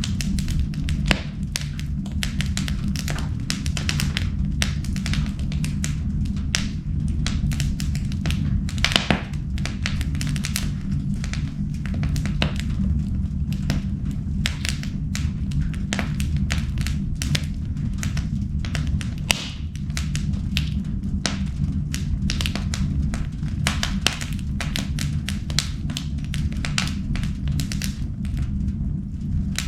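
Wood fire crackling in an indoor fireplace: many irregular snaps and pops over a steady low hum.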